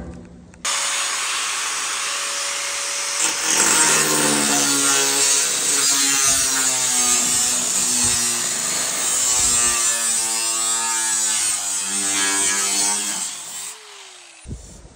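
Power saw starting suddenly and cutting for about thirteen seconds, its pitch wavering under load, then winding down.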